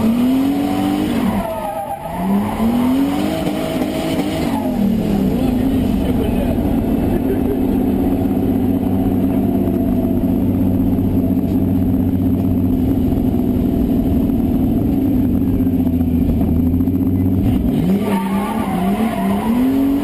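BMW E30 engine heard from inside the cabin, revving up and down a few times, then held at steady high revs for over ten seconds before revving and dropping again near the end.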